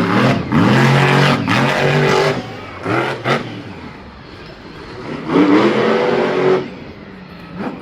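A racing vehicle's engine revs hard in repeated bursts, rising and falling in pitch. It is loudest over the first two seconds and again from about five to six and a half seconds in, and eases off in between.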